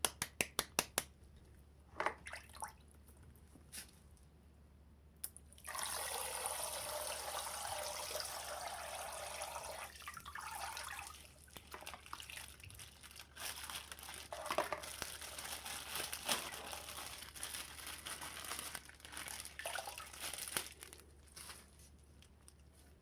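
Water rushing out of a popped water-filled plastic bag for about four seconds, followed by splashing and plastic crinkling as the wet bag is torn open and handled. A run of quick ticks sounds in the first second.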